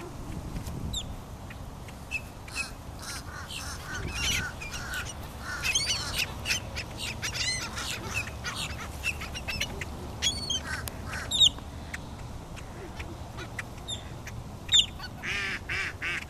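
A flock of ducks and other birds calling over one another, in many short, high, pitch-bending calls, with a low steady rumble underneath.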